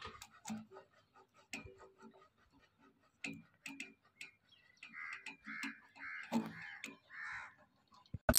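A bird calling several times in quick succession about five seconds in, over scattered faint sharp clicks.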